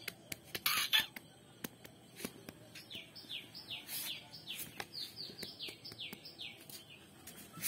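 A small bird calling in the background: a run of about a dozen short, falling chirps, some three a second, starting about three seconds in. Just before a second in there is a brief loud rustling burst, with a few light clicks around it.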